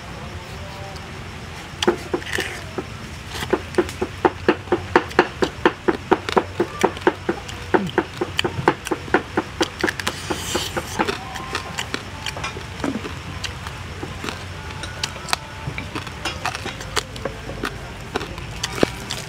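Close-up crunchy chewing of charred whole balloon frog: a quick run of sharp crunches, about three a second, starting about two seconds in and thinning out to scattered crunches after about twelve seconds.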